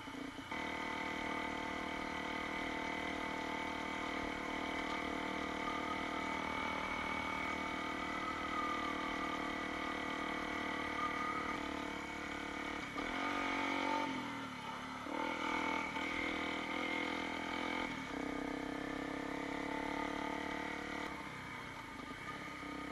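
Honda CRF250L dirt bike's single-cylinder four-stroke engine running under way at a steady pace. About halfway through, the engine note drops and then climbs back up as the bike slows and picks up speed again.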